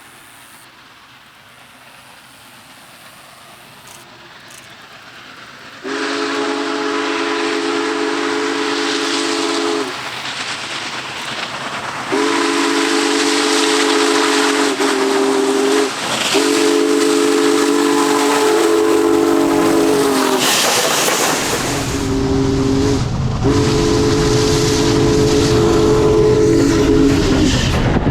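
Union Pacific Big Boy 4014's chime steam whistle blown for a grade crossing: a series of long chord blasts broken by a short one, starting about a fifth of the way in. In the last quarter the heavy rumble of the locomotive comes up close under the whistle.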